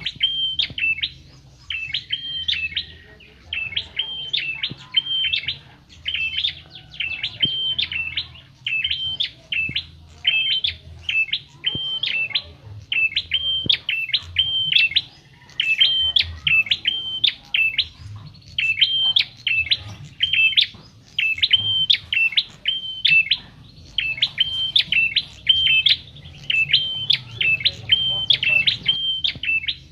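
A prenjak kepala merah, a small Javanese songbird, singing a fast, high-pitched chattering phrase over and over, about once a second, with only brief pauses.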